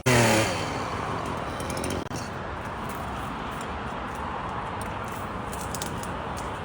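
A chainsaw's engine drops from high revs right at the start, its pitch falling quickly, then a steady rushing background noise carries on.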